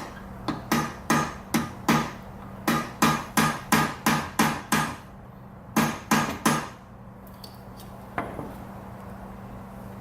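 Hammer tapping a part into place on an outboard motor's lower unit, about eighteen sharp taps in quick runs of roughly three a second with short pauses, stopping after about six and a half seconds, with one faint tap near the end.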